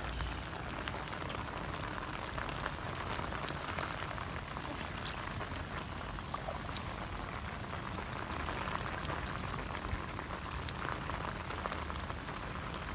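Heavy rain falling steadily, with many single drops heard as sharp ticks.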